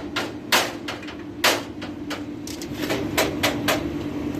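Hammer striking in an uneven run of sharp knocks, about ten in all, over a steady low hum.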